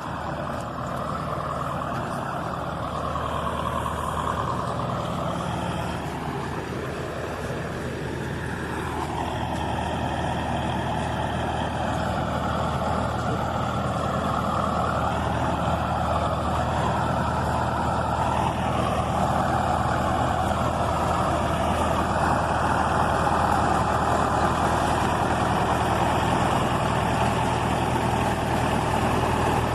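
Bulldozer's diesel engine running steadily under load while levelling a road, its pitch sweeping up and down now and then as it works and growing slightly louder towards the end.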